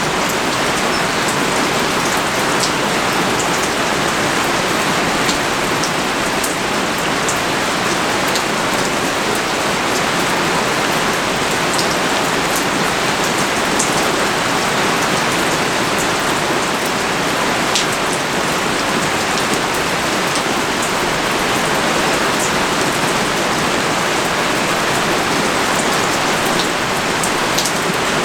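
Heavy rain pouring steadily, a dense even hiss, with scattered sharp ticks of individual drops landing close by.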